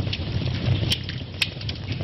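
Wood fire burning in a fireplace: a steady low roar of flames with scattered crackles and pops, two sharp pops about a second in and again about half a second later.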